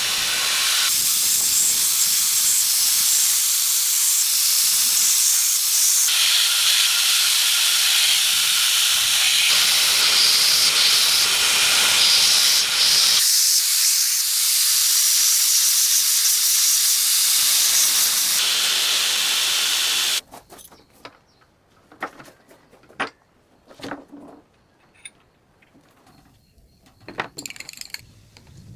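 Loud, steady hiss in several stretches that change abruptly, cutting off suddenly about twenty seconds in; after that, a few light clicks and taps.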